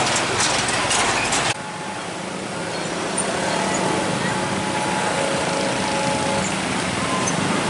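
A train passing with rail clatter, cut off abruptly about a second and a half in, followed by steady road traffic with vehicle engines running.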